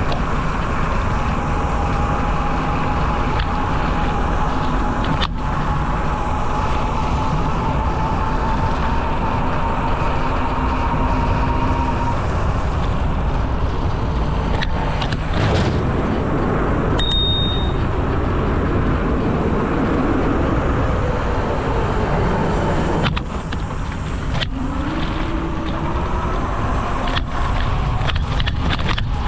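Steady wind and rolling noise from riding a bicycle along a paved trail. A bicycle bell rings once about halfway through.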